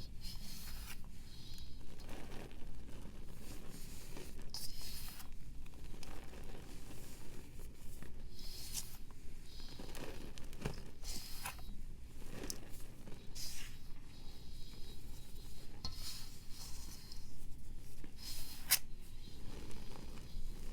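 A reformed powder block being crumbled and shaved by hand: gritty scraping strokes every second or two, with a few sharp snaps.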